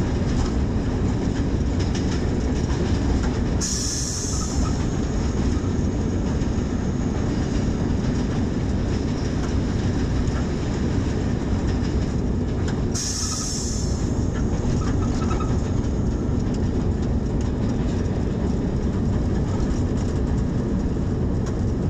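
Hitachi HBU-20 diesel-electric locomotive running with its train, a steady low rumble of engine and wheels on the rails. Two short hisses come about four and thirteen seconds in.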